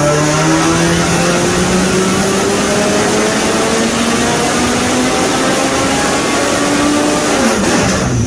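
Drift car engine running hard at high load, its pitch climbing steadily for several seconds, then falling sharply near the end as the revs drop.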